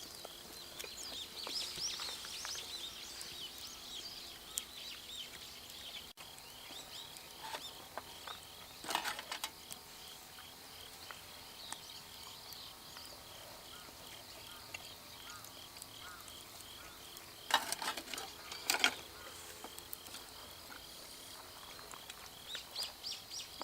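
Outdoor ambience: birds chirping, with an insect calling in a steady run of short, evenly spaced pulses. A few brief rustling or clattering noises come about a third of the way in and again near three-quarters.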